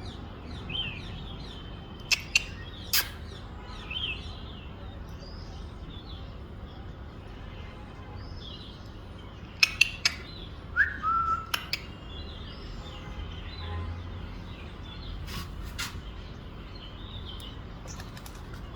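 Small birds chirping, with short high calls scattered throughout and one louder falling call about halfway through. A few sharp clicks come in small clusters, and a low steady hum runs underneath.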